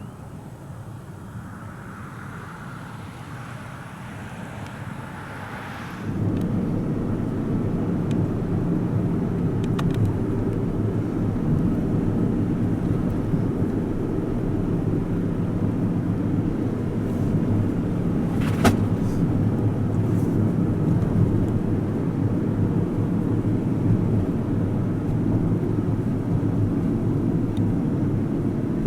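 Jet airliner engine noise: a steady rumble that jumps suddenly louder about six seconds in and then holds steady.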